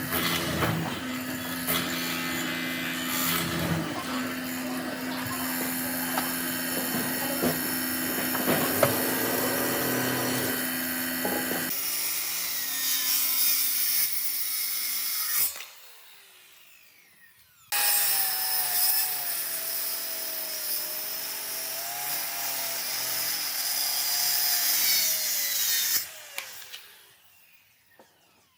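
Power tools cutting and working oak: a machine runs with a steady hum over a rough wood-cutting noise, in separate stretches. It cuts out sharply about halfway through, starts again with a wavering whine, then fades out near the end.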